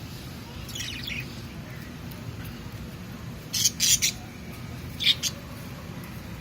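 Budgerigars giving a few short, high chirps and squawks, the loudest cluster about three and a half seconds in, over a steady low background hum.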